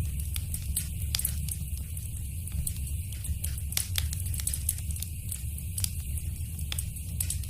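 Wood fire crackling in a fireplace: frequent sharp pops and snaps at irregular intervals over a steady low rumble of the flames.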